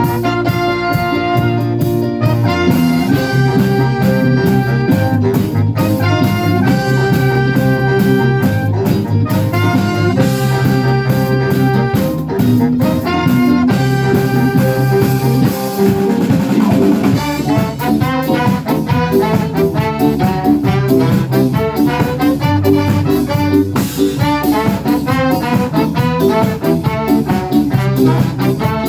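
A live band with a horn section of brass and saxophone playing an upbeat, swing-flavoured instrumental passage over drum kit and bass, the horns holding notes together.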